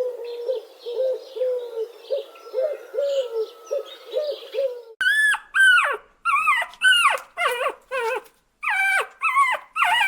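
Animal calls: for about five seconds a quick run of short, low hooting calls, then, after a brief break, a series of higher cries that each rise and then fall in pitch, about two a second.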